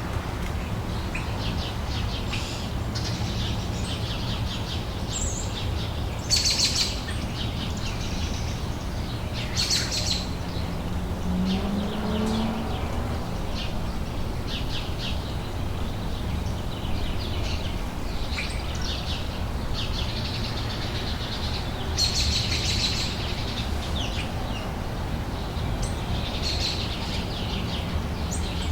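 Outdoor summer ambience: small birds chirping and singing on and off, over a steady low background rumble.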